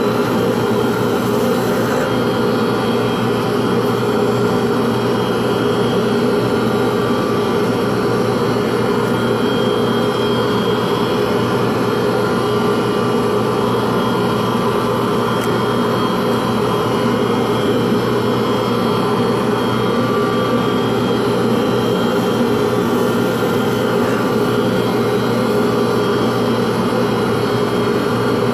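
A workshop power tool's electric motor running steadily, an even hum that does not change.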